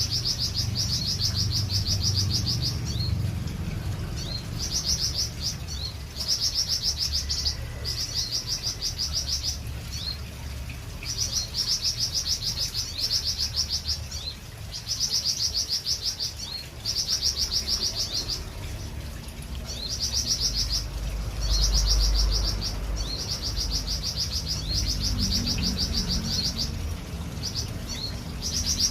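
A songbird repeating a fast, high trill of rapid even notes, in phrases of one to two seconds with short pauses between, over and over. A low rumble runs underneath, strongest a little past the middle.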